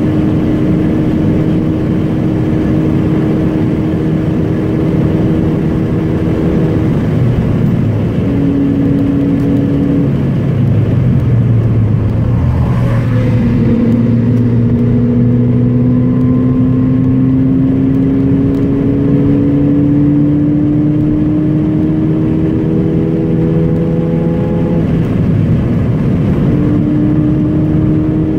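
Car engine and road noise heard from inside the cabin, the car driven hard on a circuit. The engine note holds steady, eases off about a quarter of the way in, then after a shift near the middle climbs slowly for about ten seconds under acceleration before another change near the end.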